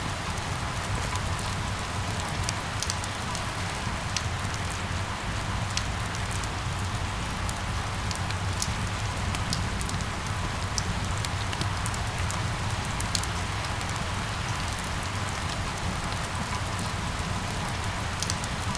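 Steady rain falling, an even hiss with scattered sharp drop ticks over a steady low rumble.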